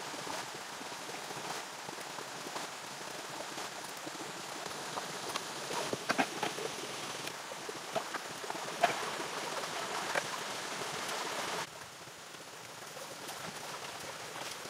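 Steady rain falling, with scattered sharp ticks of single drops; the sound turns suddenly quieter about twelve seconds in.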